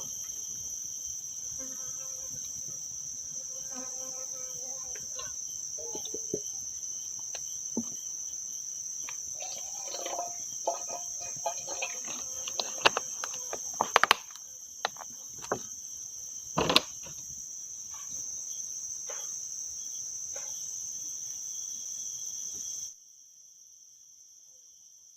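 Steady, high-pitched chorus of forest insects, with scattered sharp clicks and knocks through the middle and two louder knocks about two-thirds of the way in. The insect sound cuts off suddenly near the end.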